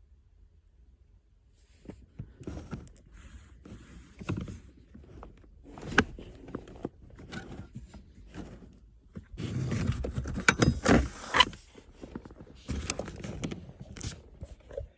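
Irregular clicks, scraping and rattling of hands working with tools and parts, starting about two seconds in and busiest around ten to eleven seconds in.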